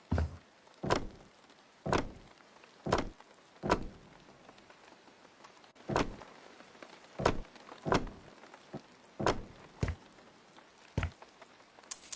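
A series of separate knocks, about one a second, with a short pause in the middle.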